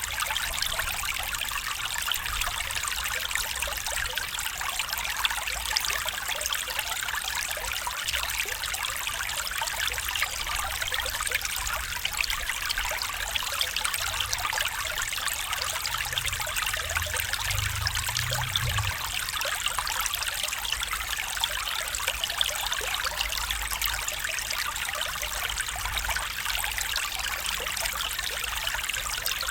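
A stream flowing steadily with a constant trickling, babbling rush of water. A brief low rumble comes through about two-thirds of the way in.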